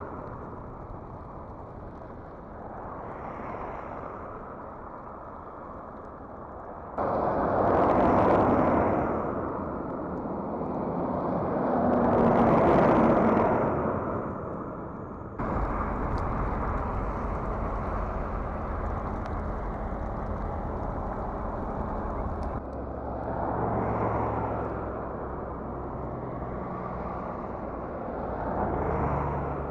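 Vehicles passing on a snow-covered highway: engine and tyre noise swells and fades several times over a steady rushing background, which changes abruptly a few times where shots are cut together.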